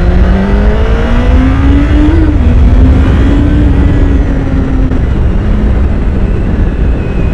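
Honda CBR1000RR SP's inline-four running through its stock exhaust under acceleration, pitch climbing for about two seconds. It dips briefly, holds steady, then falls as the throttle is eased about five seconds in, with heavy wind rush from riding.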